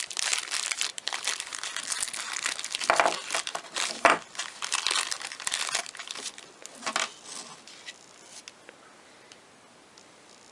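Packaging crinkling and rustling as the parts of a dent-puller kit are unwrapped and handled, with a couple of louder crunches about three and four seconds in; it dies away after about seven seconds.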